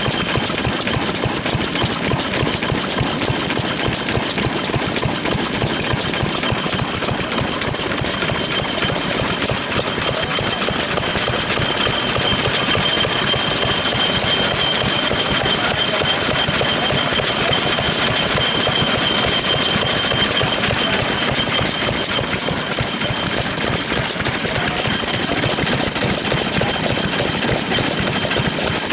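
Vintage stationary engines running with a fast, steady chugging knock. A faint steady whine comes in about twelve seconds in and fades out around twenty-one seconds.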